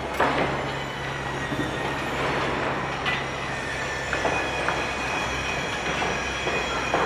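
Heavy machinery running with a steady low hum, scattered metallic knocks and a thin high squeal running through it.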